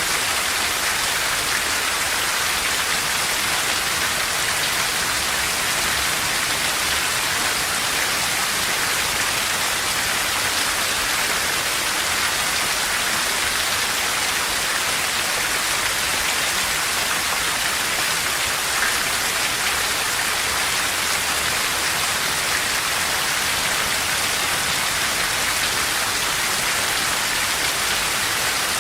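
Steady heavy rain falling on foliage and ground, an even hiss without thunder.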